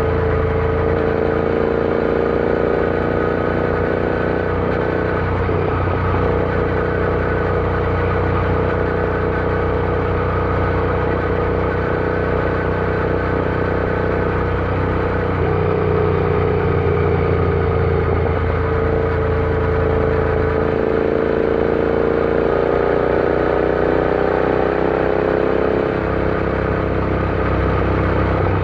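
Royal Enfield Interceptor 650's parallel-twin engine running steadily while riding. Its pitch eases down a little about two-thirds of the way through, then climbs again near the end.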